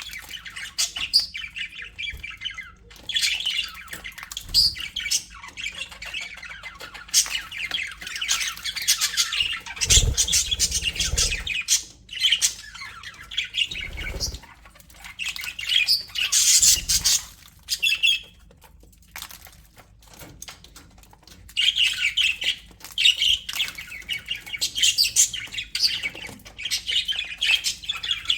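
Budgerigars chattering, with rapid chirps and squawks overlapping. A few low thumps come around a third and halfway through, and the chatter drops to a lull about two-thirds of the way in before picking up again.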